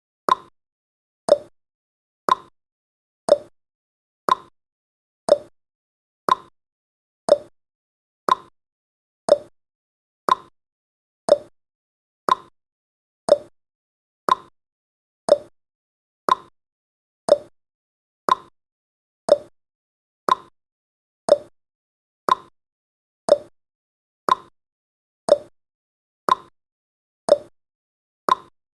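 Clock-tick sound effect of a countdown timer, one click every second. The clicks alternate between a higher and a lower pitch, tick-tock.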